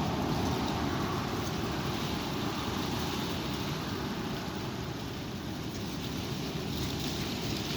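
Strong wind blowing and buffeting the microphone: a steady rushing noise with a flickering low rumble.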